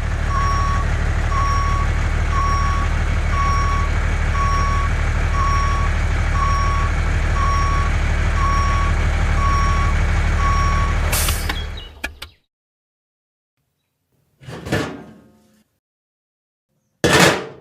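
Truck engine running with a reversing alarm beeping about once a second, eleven beeps in all, then both cut off suddenly. Two short noisy bursts follow near the end.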